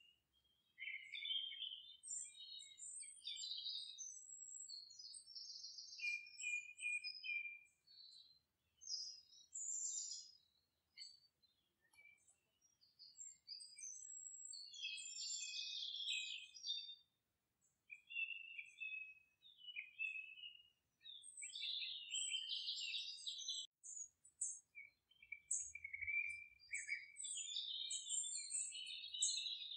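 Wild songbirds singing: a busy mix of quick chirps and whistled phrases, with a few short lulls.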